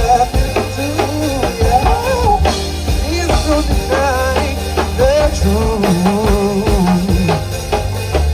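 Live band performing: a drum kit keeping a steady beat under a bass line, with a sliding, wavering lead melody on top.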